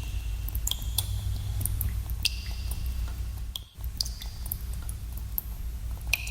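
Water drops falling into a pool in a cave, irregular plinks every half second to second, each with a short ringing tone, over a steady low rumble of cave ambience. The sound cuts out briefly about three and a half seconds in.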